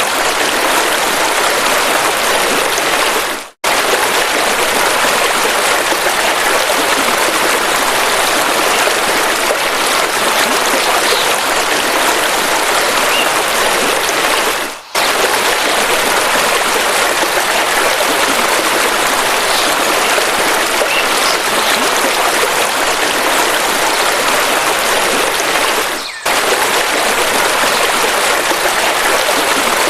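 River water rushing steadily over rocks. The sound dips out briefly three times, once about three and a half seconds in, once around the middle and once near the end.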